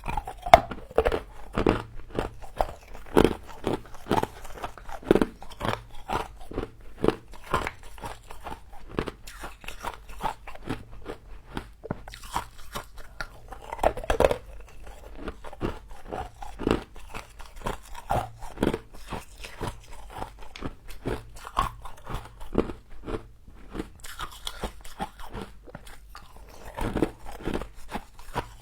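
Close-miked biting and chewing of frost: a continuous run of sharp, irregular crunches, several a second.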